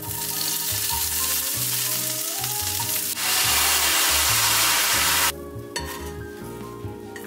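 Tofu cubes frying in olive oil in a pan, sizzling steadily. About three seconds in, soy sauce is poured over them and the sizzle turns louder, then it cuts off about five seconds in.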